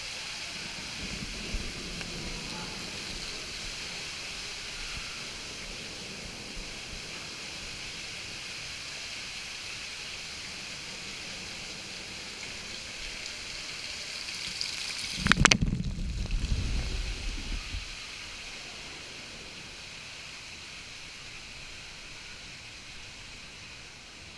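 Lazy-river water running steadily around an inner tube, with a loud splash of water about 15 seconds in that lasts two to three seconds; afterwards the high hiss is duller.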